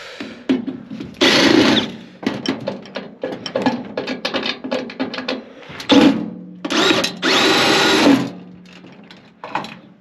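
Cordless drill-driver backing screws out of a microwave's sheet-metal casing in short motor runs: one about a second in, then two more around six and seven seconds. Between the runs are clicks and clatter of metal and screws being handled.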